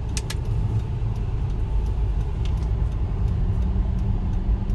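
Manual car driving, heard from inside the cabin: steady low engine and road rumble, with a few light clicks near the start and a steady low engine note coming in about halfway through.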